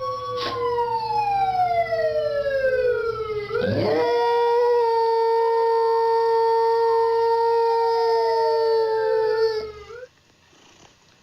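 Dog howling in long drawn-out calls, some sliding slowly down in pitch and others held steady, with two howls overlapping at times. The howling stops about ten seconds in.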